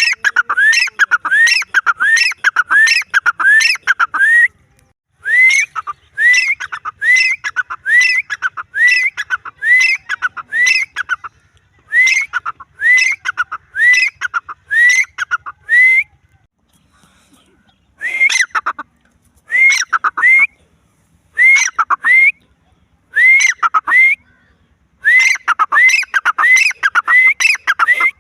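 Grey francolin (bhura teetar) calling: runs of loud, rising notes about two a second, repeated in bursts of several seconds with short pauses between them.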